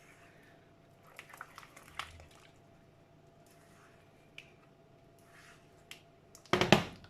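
Whisk working through a thick cheese sauce in a pan, making faint squelches and light clicks, with a louder knock near the end.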